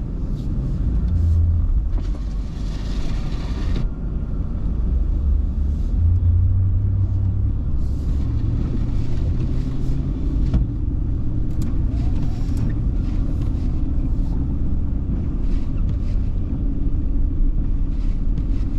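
Car being driven: a steady low rumble of engine and road noise, with a louder hiss for a couple of seconds near the start and scattered light clicks.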